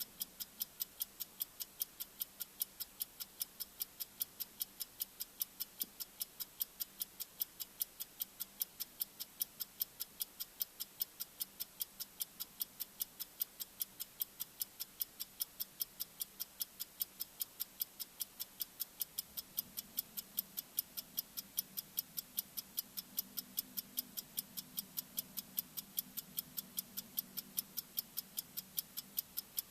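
Countdown-timer ticking sound effect: sharp, high-pitched, clock-like ticks at a fast, even rate.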